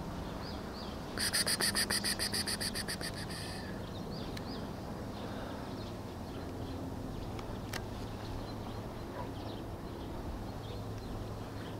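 A bird's rapid, evenly pulsed trill, about nine pulses a second, starting about a second in and lasting some two and a half seconds, followed by faint scattered chirps over a steady low hum.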